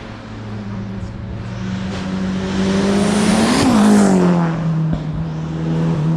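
A hillclimb race car passing by under power. Its engine note rises as it approaches, is loudest about three and a half seconds in, then drops in pitch as it goes away.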